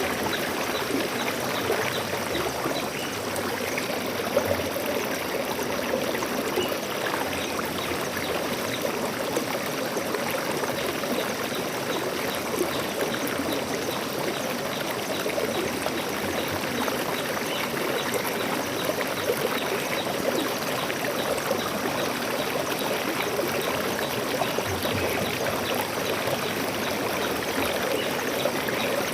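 Stream water flowing steadily, a continuous even rush with trickling.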